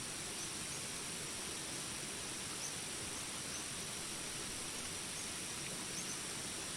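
Jungle ambience: steady rain hiss under a constant high-pitched insect drone, with a few short faint chirps scattered through it.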